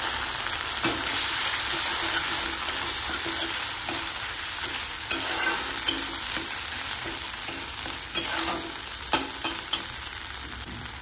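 Ginger-garlic and spice paste frying with onions in hot oil in a kadhai, sizzling steadily while being stirred with a steel spatula that scrapes and clicks against the pan several times. The sizzle eases slightly near the end.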